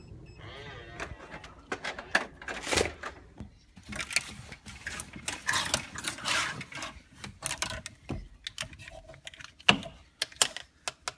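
Irregular clicks, knocks and rustling from a person moving about and handling things, with one sharper knock near the end.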